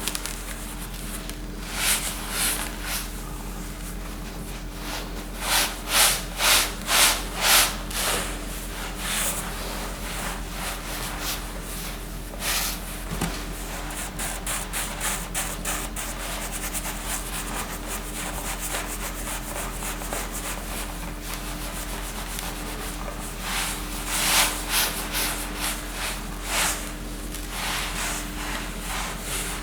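Short swishing strokes that come in runs, at about two a second through the loudest run, over a steady low hum.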